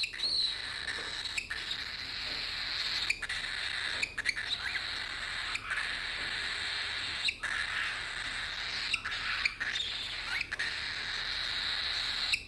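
A cockatiel making a few short, squeaky chirps over a steady hissing background, which is broken by several brief dropouts.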